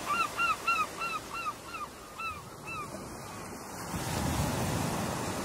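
A bird gives a quick series of about ten short rising-and-falling calls that fade out over about three seconds, over the wash of ocean surf, which grows louder about four seconds in.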